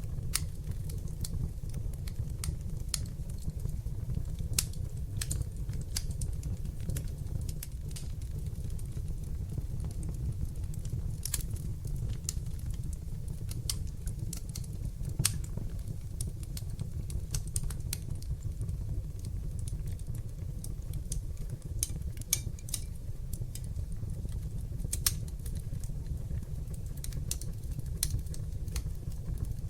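Fire burning in a fireplace, with frequent sharp, irregular crackles and pops, a few louder than the rest, over a steady low rumble of the flames.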